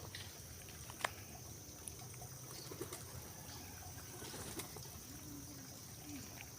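Pigeons cooing softly a few times, low and faint, with one sharp click about a second in.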